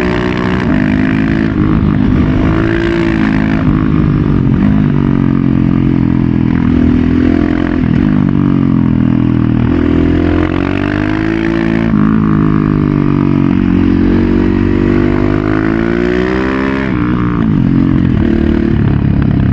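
KTM 690 SMC-R's single-cylinder engine through a Leo Vince Evo One full exhaust system, loud, its pitch climbing under acceleration and dropping sharply several times, about 8, 12 and 17 seconds in, as the rider shifts or rolls off and then pulls again.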